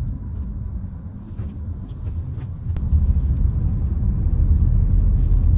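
Car driving, heard from inside the cabin: a steady low rumble of engine and road noise that gets louder about three seconds in.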